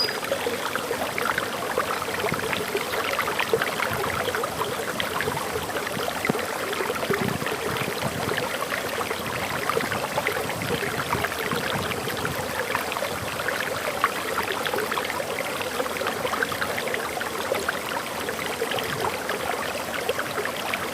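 Waterfall water pouring and splashing steadily. A bird gives a short high call right at the start.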